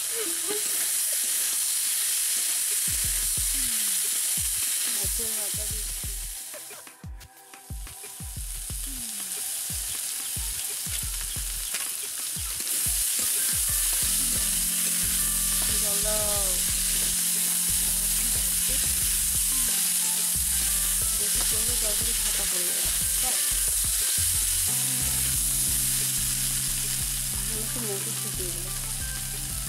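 Vegetables and fish head frying in a metal wok: a steady sizzle with a metal spatula stirring and scraping against the pan, the sound dropping away briefly about seven seconds in.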